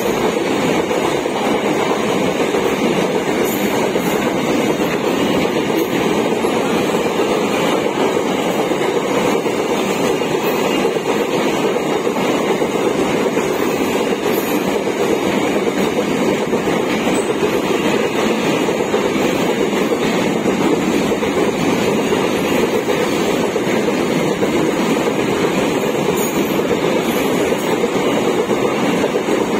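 Container-laden BLC flat wagons of a freight train rolling past, a steady loud rumble of steel wheels on the rails.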